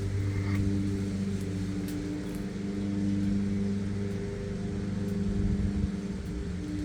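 A steady low machine hum holding one pitch, with a few faint ticks.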